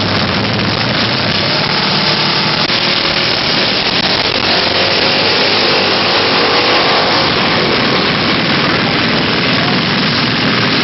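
Small mini bike engines running, their pitch rising and falling through the middle, under a loud, steady rushing noise.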